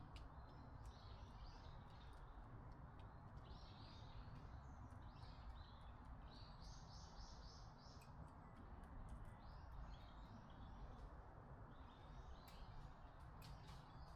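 Faint birdsong: short runs of quick, high chirping notes repeated every second or two, over a low steady background hum of outdoor noise.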